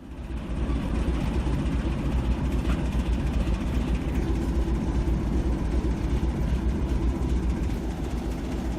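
Train on a heritage railway running close by, a steady heavy low engine rumble that starts suddenly.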